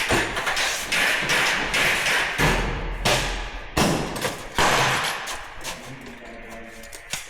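Handling noise: several thumps, each followed by about a second of rustling, scraping noise.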